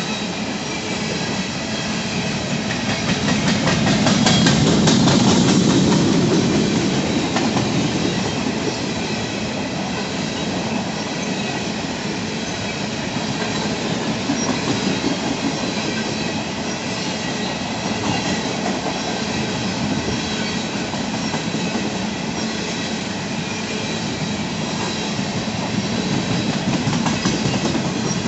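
Empty coal hopper cars of a freight train rolling past, a steady rumble and clatter of steel wheels on the rails, swelling louder about four to six seconds in.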